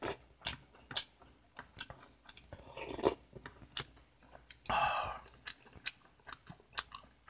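A person chewing food with many small wet mouth clicks, close to the microphone. There is a short breathy noise about five seconds in.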